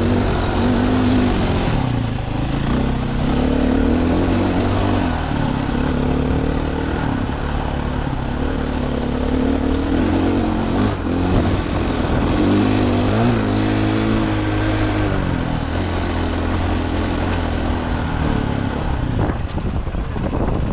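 Dirt bike engine revving hard up and down under load on a climb, its pitch rising and falling again and again with the throttle.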